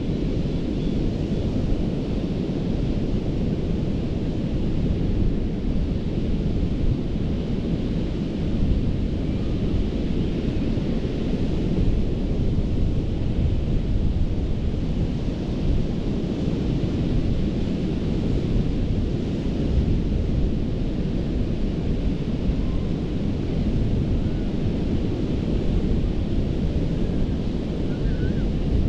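Ocean surf washing steadily onto a sandy beach, mixed with a deep, continuous rumble of wind on the microphone.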